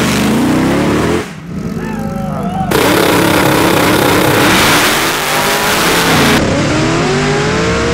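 Short clips of high-performance car engines revving and accelerating, spliced together with several abrupt cuts. A loud stretch of rushing noise fills the middle.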